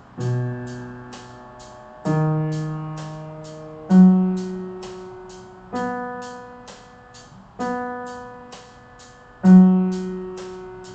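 Piano playing a B major arpeggio in slow half notes. Single struck notes come about every two seconds, each left to ring and fade, stepping up through B, D sharp and F sharp to the upper B and back down. A faint, fast ticking runs over the top.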